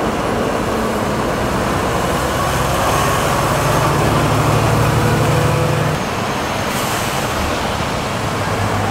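Large diesel tractor engines running under load. The engine note grows louder and then drops off suddenly about six seconds in.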